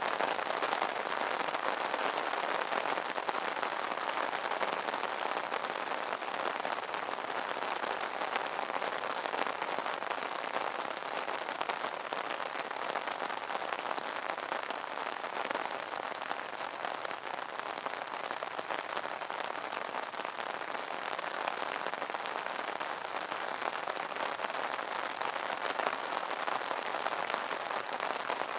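Steady rain falling on an umbrella, a dense even patter of drops on the fabric canopy.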